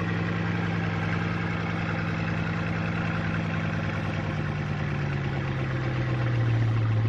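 Car engine and exhaust running at a steady idle. About two-thirds of the way through, the pitch slides lower as the idle settles down, and the sound grows a little louder.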